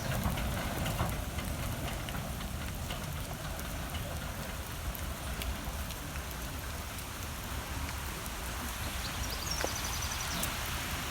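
Steady rain falling and pattering, with a low, gusty wind rumble on the microphone.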